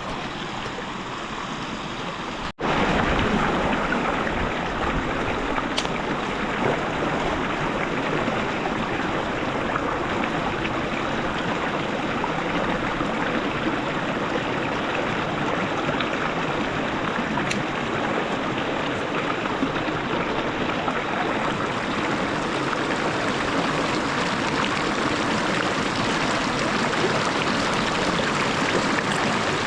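River water flowing and rushing in a steady wash. It breaks off for an instant about two and a half seconds in, then comes back louder.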